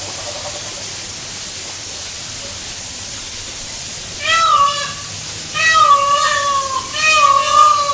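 A bird giving three loud, drawn-out wailing calls, each about half a second to a second long with the pitch dipping slightly, starting about four seconds in over a steady hiss.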